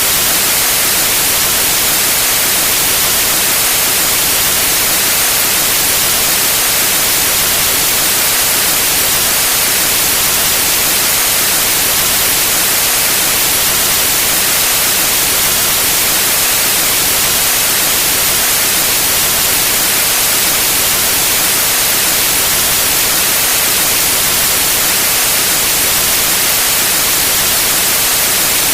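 Steady white noise: an even, unbroken hiss, bright in the treble, with no change in level.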